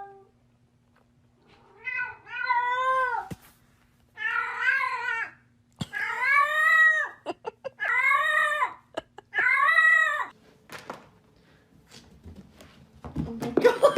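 Domestic cat meowing five times in a row: long drawn-out meows of about a second each, rising then falling in pitch. They are followed by a few faint clicks.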